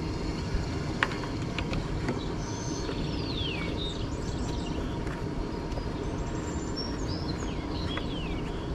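Outdoor background: a steady low rumble with birds chirping a few times, falling high notes, and a sharp click about a second in.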